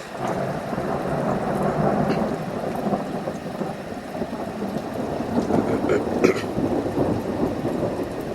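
A thunder rumble that breaks out suddenly and rolls on for several seconds, with faint rain underneath.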